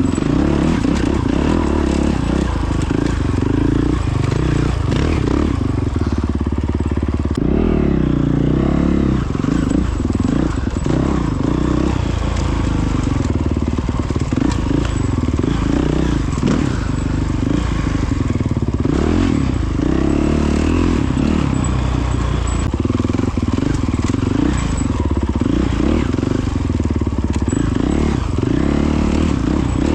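Honda CRF450X dirt bike's single-cylinder four-stroke engine running while riding, its revs rising and falling with the throttle.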